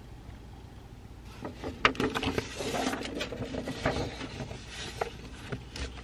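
Rustling and a series of sharp clicks and taps from things being handled on a study desk. They start a little over a second in, are busiest in the middle, and are followed by a couple of lone clicks near the end, over a faint steady room hum.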